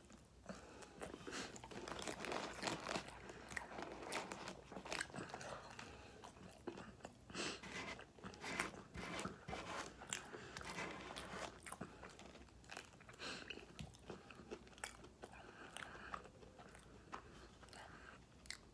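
A person chewing and crunching fast food, with many irregular small crackles and crunches throughout.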